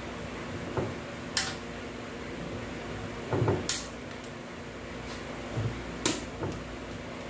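Automatic transmission parts being handled: three sharp metallic clicks and a couple of dull knocks as pieces are picked up and set down, over a steady low hum.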